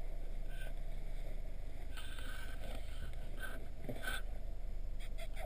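Steady low rumble of a car, its engine idling, with a few faint rustles about two and four seconds in.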